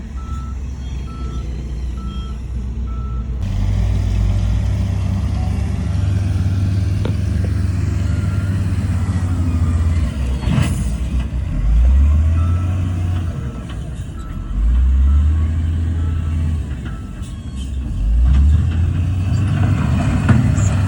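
Heavy diesel earthmoving machinery running, with a reversing alarm beeping at an even pace for the first few seconds and fainter beeps later. The engine surges and rises in pitch several times about halfway through and again near the end.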